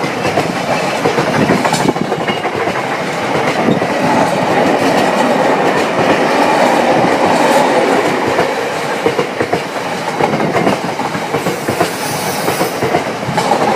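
Freight train of tank wagons rolling past close by, the wheels clattering steadily over the track.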